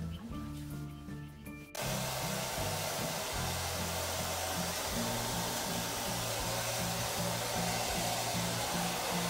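A blow dryer switches on abruptly about two seconds in and runs steadily, drying a freshly bathed beagle's wet coat. Background music with a bass line plays underneath.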